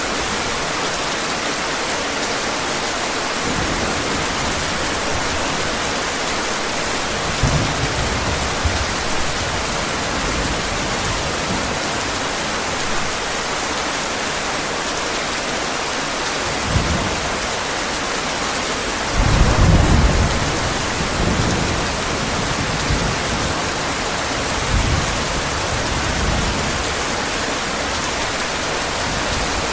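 Heavy rain falling steadily, with several low rolls of thunder; the loudest roll comes about two-thirds of the way through.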